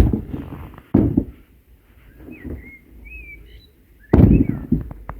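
A few sharp knocks and thuds, the loudest about four seconds in, with a small bird chirping a short phrase in the middle.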